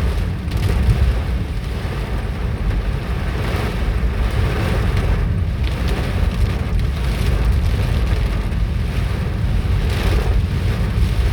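Hailstorm with strong wind: a steady rush of heavy rain and hail, with wind buffeting the microphone.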